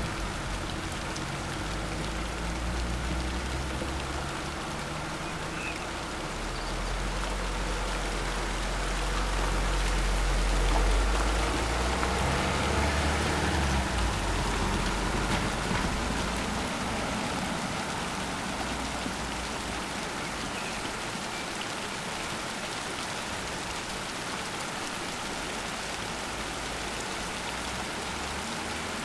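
Heavy rain in a summer thunderstorm downpour, a steady hiss of drops. Thunder rumbles low underneath through the first half, swelling about ten seconds in and dying away around fourteen seconds in.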